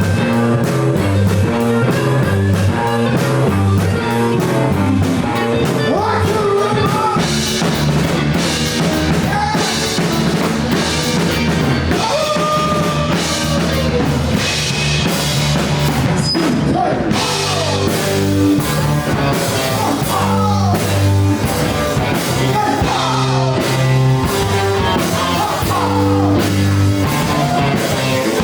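Rock band playing live: drum kit, bass and electric guitar at a steady driving beat. From about six seconds in, a lead line with bending notes runs over the top.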